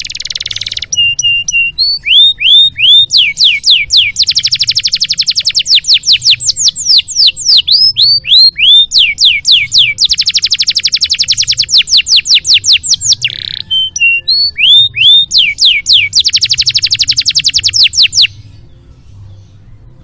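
Domestic canary singing a long, varied song: rapid high trills alternate with series of repeated downward-sweeping whistled notes and a few held notes. The song stops about two seconds before the end.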